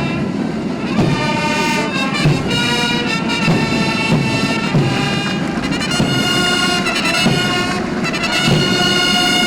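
Military band playing ceremonial music: held brass notes over a steady drum beat.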